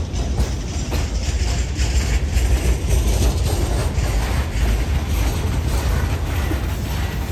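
Freight cars (covered hoppers and boxcars) rolling past at close range: a steady rumble of steel wheels on the rails, with a few clacks.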